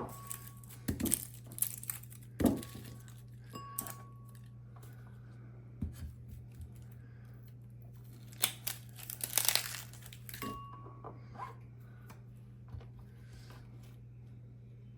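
Rustling and crinkling handling noises with a few light knocks, and several short high beeps.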